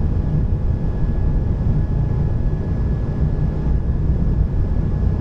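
Airbus A220 accelerating down the runway at takeoff thrust: a loud, steady, deep rumble from the roll and its Pratt & Whitney PW1500G geared turbofans, with a faint steady high tone above it.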